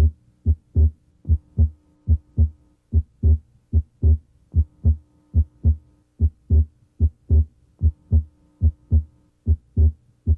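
A human heartbeat heard through a stethoscope's diaphragm at the left sternal border: regular paired lub-dub beats, about 75 a minute, over a faint steady hum. The second heart sound (S2) is split, abnormally wide in this patient and coming and going with deep breathing.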